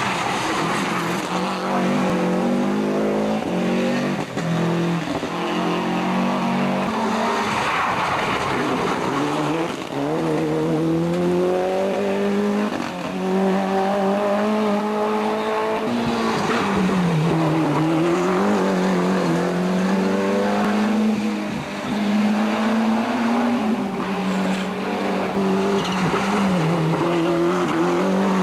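Rally car engine revving hard at speed, its pitch climbing through each gear, then dropping sharply on gear changes and lifts before climbing again.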